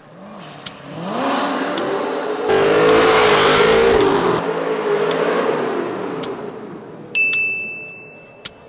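Texas Speed 427 LS V8 in a 2000 Pontiac Firebird revving up and held at high revs, with a loud rush of noise in the middle, then dying away. A steady high-pitched beep starts near the end.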